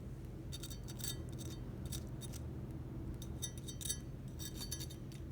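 Knife cutting through the crisp fried breading of a chicken tender, giving crackly crunches in two short spells, about a second in and again near four seconds.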